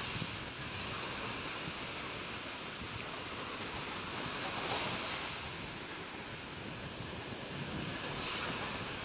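Sea waves washing onto the beach, a steady surf noise that swells about halfway through and again near the end, with wind buffeting the microphone.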